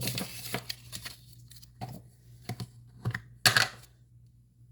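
Rustling and light taps of paper-crafting supplies being handled, with a louder rustle about three and a half seconds in.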